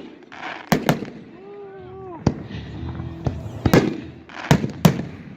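Fireworks going off: a string of about six sharp bangs spread irregularly over a few seconds, with people's voices between the reports.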